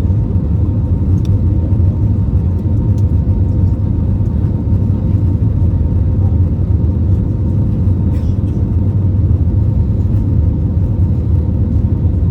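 Steady low rumble of cabin noise inside an Airbus A320neo with CFM LEAP-1A26 engines, with a faint steady hum over it and a few faint clicks.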